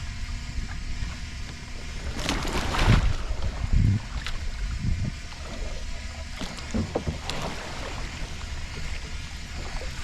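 Water splashing and sloshing around a kayak as the paddler capsizes and rolls back up with a Greenland paddle, under a low rumble of water on the microphone; the biggest splash comes about two to three seconds in.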